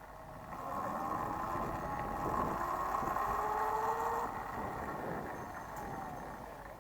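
Sur-Ron electric dirt bike's motor whining, rising in pitch as it speeds up for a few seconds, then easing off.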